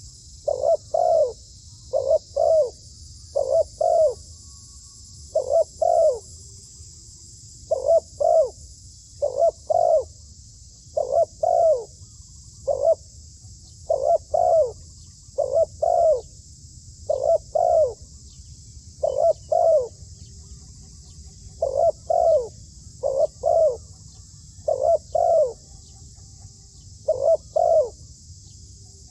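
Dove cooing over and over in short two-note phrases, about one phrase every second or two, with a few brief pauses.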